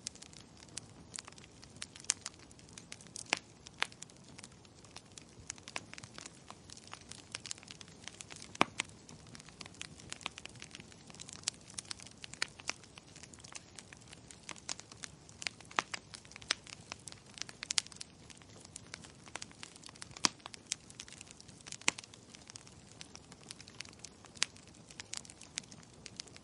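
Wood fire crackling: frequent irregular sharp pops and snaps over a low steady hiss of burning.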